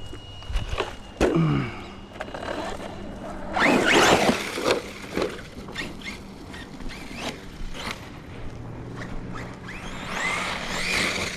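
Team Corally Kagama 6S electric RC car driving in bursts: its brushless motor whine rises and falls with the throttle over tyre scrabble and loose clattering knocks. The loudest bursts come about 4 s in and again near the end.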